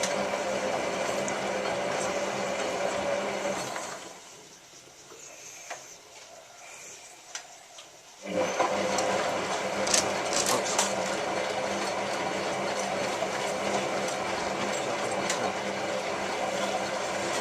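Hotpoint 9534A washing machine tumbling its drum in the main wash of a descaling program: the motor runs steadily, stops for about four seconds, then starts the drum turning again.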